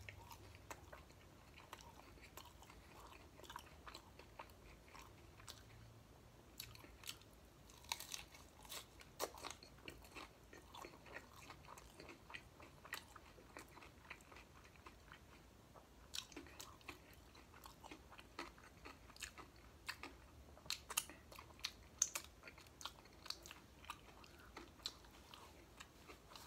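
Close-up biting and chewing of a fried corn-tortilla chicken taco: faint chewing punctuated by sharp crunches of the crisp shell, busiest around eight to ten seconds in and again from about sixteen to twenty-two seconds in.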